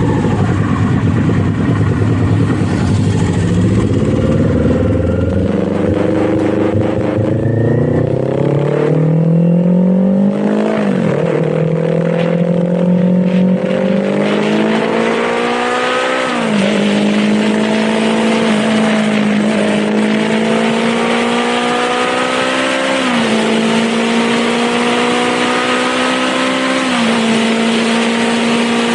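Kawasaki Z400's 399 cc parallel-twin engine accelerating up through the gears. It starts at low revs, then the note climbs, dips at each upshift and climbs again, about five times.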